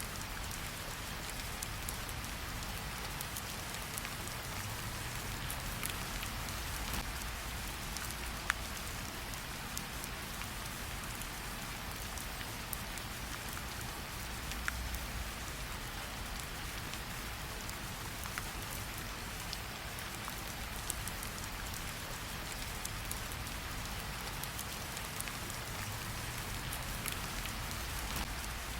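Steady rain falling, with scattered sharp pops and crackles from a campfire.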